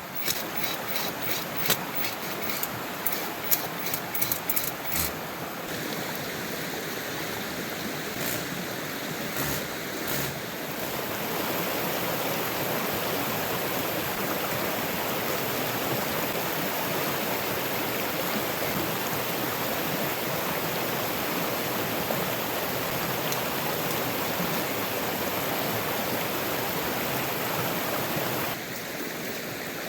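A run of sharp clicks and knocks for the first few seconds, then steady rushing water that grows louder about eleven seconds in and eases a little near the end.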